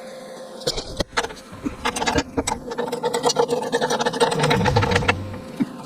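Steady machine hum with scattered knocks and clatter.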